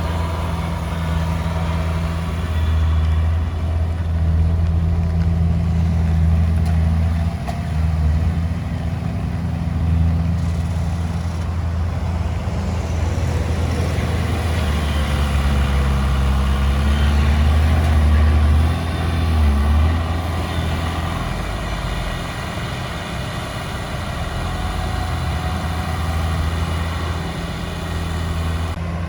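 Heavy diesel engine of earth-moving machinery running steadily, its drone swelling and easing as the load and revs change.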